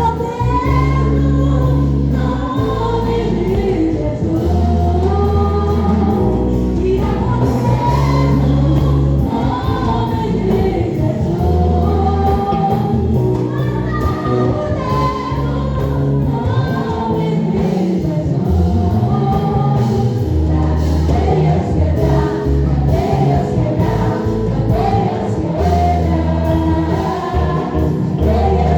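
Gospel worship song: several voices singing together over a band with sustained bass notes and a steady cymbal beat.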